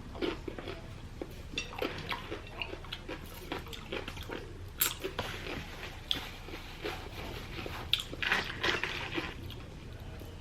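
Close-up chewing and crunching of raw cucumber, a string of short irregular crunches and mouth clicks.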